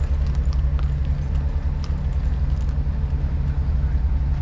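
Semi truck's diesel engine running, a deep steady rumble.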